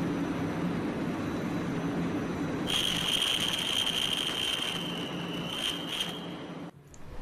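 Sprinter electric train running, heard as a steady low hum with running noise. About three seconds in a steady high-pitched tone or squeal joins it and stops a few seconds later, and the sound drops out abruptly near the end.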